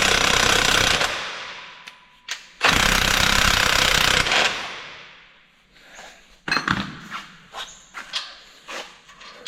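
Power impact tool hammering at a seized fastener in two long bursts, one fading out about a second in and the other from about 3 to 4.5 seconds. After it, a few sharp metallic knocks and clicks.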